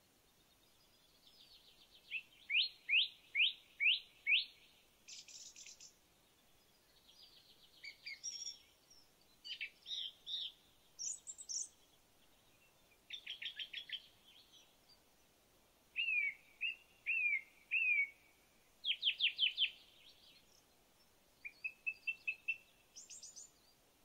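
A songbird singing a run of short, varied phrases, each a few quick repeated notes, mostly rapid downward sweeps, with brief pauses between phrases.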